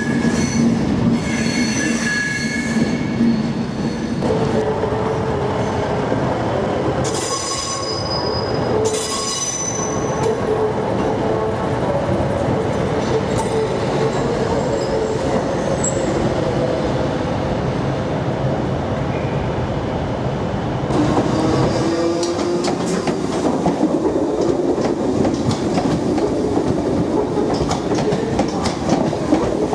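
Trains moving through a station: a Virgin Pendolino electric train coming in, then a First ScotRail Class 156 diesel unit, with high wheel squeal from curved track twice in the first ten seconds. From about two-thirds of the way in, a Class 314 electric unit passes with its motor whine rising in pitch over the clatter of wheels on rail joints.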